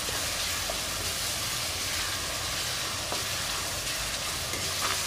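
Ginger-garlic paste frying with a steady sizzle in hot coconut oil in an aluminium kadai, stirred with a metal spoon, with a faint tick now and then from the spoon.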